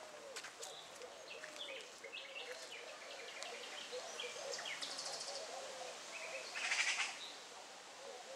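Several wild songbirds chirping and singing, with a louder rapid trill about seven seconds in and a low repeated warbling underneath.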